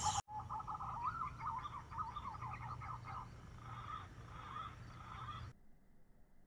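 A bird calling in a quick string of short warbling, chirping notes over a low steady hum; the sound cuts off abruptly about five and a half seconds in.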